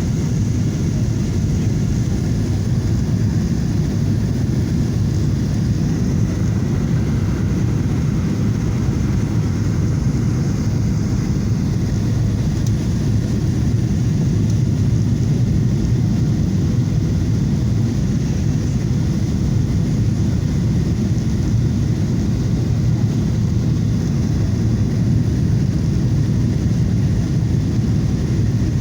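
Boeing 737-800 airliner noise from its CFM56 jet engines and the airflow, a steady low noise that holds even throughout without swells or changes.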